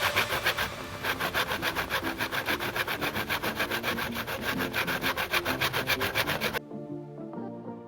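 A hand tool rubbing back and forth across wood in fast, even, rasping strokes, several a second, which stop abruptly near the end.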